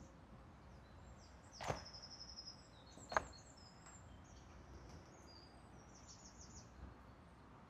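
Quiet outdoor ambience with birds chirping and trilling faintly, broken by two sharp clicks about a second and a half apart.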